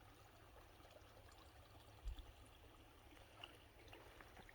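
Near silence: faint, even outdoor hiss, with one brief low thump about two seconds in.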